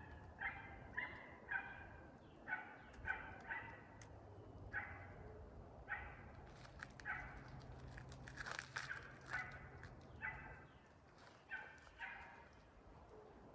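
Faint animal calls, short and repeated at about two a second in several runs, with a few rustling clicks about two-thirds of the way through.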